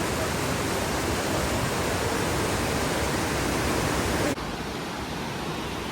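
Steady rush of flowing creek water, dropping suddenly to a lower level a little over four seconds in.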